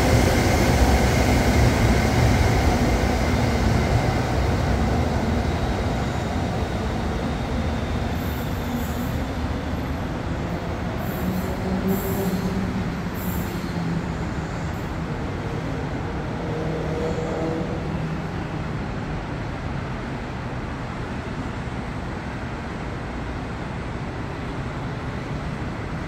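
Train running along the rails, its rumble loudest at first and fading steadily as it moves away.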